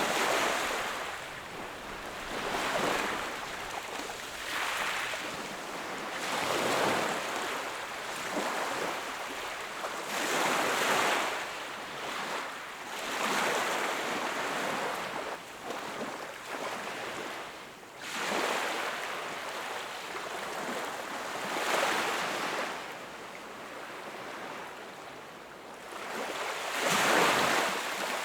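Sea waves breaking and washing onto the shore, one surge every two to four seconds, with the biggest surge near the end.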